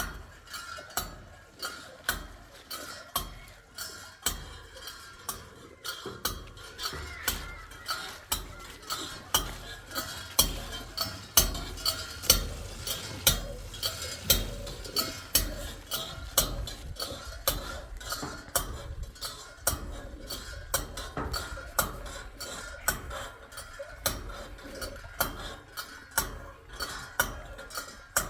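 Kitchen utensil knocking and scraping against a pot or dish in a steady rhythm, a little more than one sharp stroke a second, each with a dull thud beneath.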